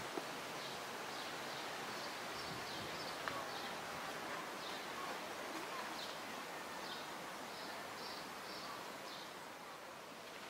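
Outdoor garden ambience: a steady background hiss with a small bird giving short, high chirps over and over, about one every half second to a second, with a few brief pauses.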